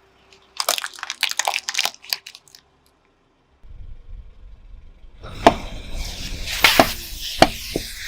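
Something crunchy breaking under a car tyre: a quick run of sharp crackles in the first two seconds, then, over the low rumble of the rolling car, a few separate loud cracks.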